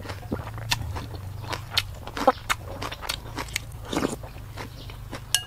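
Close-miked chewing and biting as a person eats fish paste dip with rice and fresh vegetables, with many small, sharp crunching and wet mouth clicks at irregular intervals.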